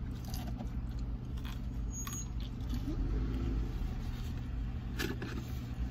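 Steady low rumble of a car idling, heard from inside the cabin, with a couple of short clicks.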